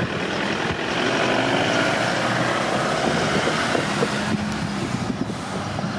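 Road traffic: motor vehicles running by the crossing, with a steady engine hum and tyre noise.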